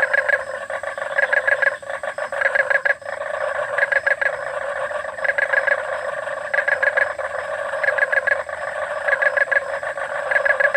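A chorus of frogs calling at night. A steady dense background of calls runs underneath, and over it one call comes as a quick rattling series of pulses, repeating about every second and a bit.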